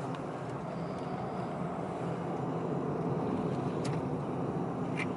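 Steady engine and road rumble of a car being driven, with a faint low hum and a couple of light clicks near the end.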